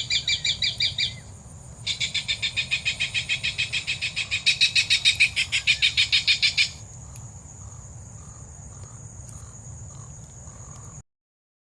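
Bird calls in rapid, evenly pulsed chattering trills of about nine notes a second: one trill ends about a second in, and a louder one runs from about two seconds to nearly seven seconds. A steady high thin whine, like insects, continues underneath, then everything cuts off near the end.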